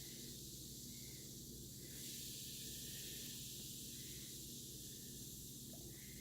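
Faint, steady fizzing hiss of a toy colour-changing volcano reacting with citric acid solution, with a low steady hum underneath.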